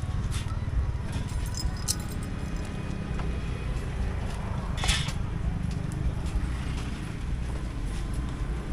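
A motor vehicle's engine running steadily as a low rumble, with scattered clicks and one louder clatter about halfway through.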